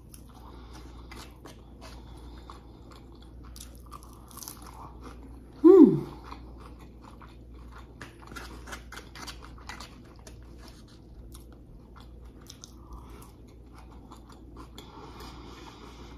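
Close-up chewing of a mouthful of burrito bowl (rice, beans, chicken, lettuce): soft wet mouth clicks and light crunches. About six seconds in comes one short hum from the eater, falling in pitch.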